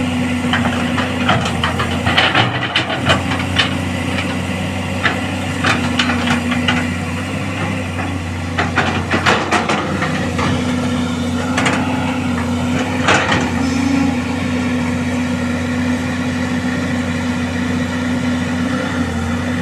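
Caterpillar excavator's diesel engine running steadily under load as the machine struggles to crawl out of mud, its travel motors lacking power. Scattered clanks and knocks, thickest a couple of seconds in and again around the middle, come from the tracks and bucket working the ground.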